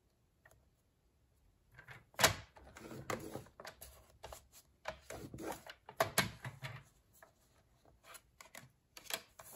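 Card stock being handled and lined up on a paper trimmer: an irregular run of clicks, taps and paper rustling that starts about two seconds in, with the loudest sharp click just after it starts.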